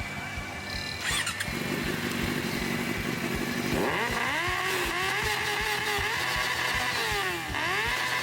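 Sport motorcycle engine revving hard: the pitch climbs about four seconds in and holds high with small wobbles, then drops sharply and climbs again near the end.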